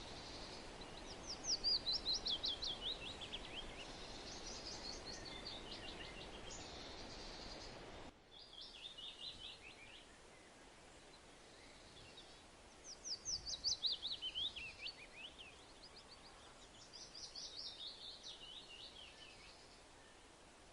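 A songbird singing: repeated phrases of quick notes, each phrase a rapid run that falls in pitch over two to three seconds, about five or six phrases. A steady hiss under the song drops away about eight seconds in.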